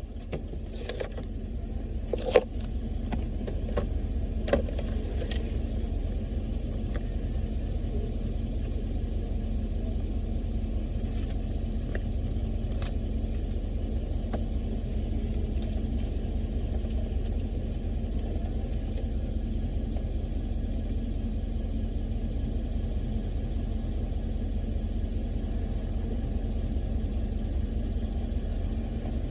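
A vehicle's engine running steadily with a low drone, with a few short knocks in the first few seconds.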